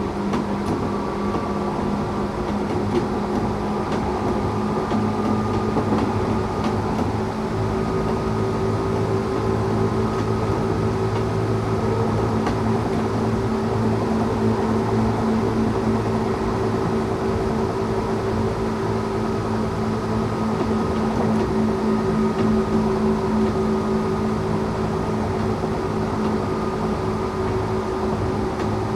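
Tokyu 8500 series electric train running along the track, heard from inside the car: the Toyo Denki traction motors and gears hum in several steady tones over the rumble of wheels on rail, holding at an even speed.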